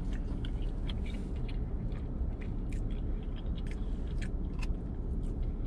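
A man chewing a mouthful of meatloaf, many small wet clicks and smacks, over a steady low hum.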